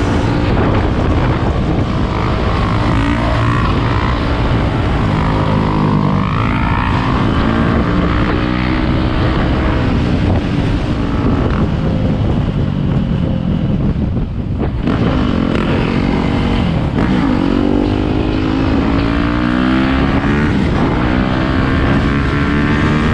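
Dirt bike engines revving up and down as they pass, several at once near the end, with a brief lull about halfway through.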